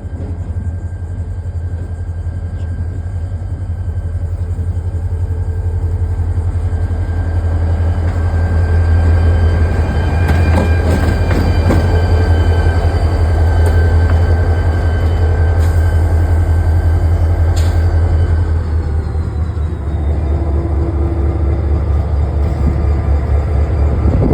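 Diesel locomotive engine running as it moves through the yard, getting louder and staying loud through the middle, with a few sharp metallic clanks.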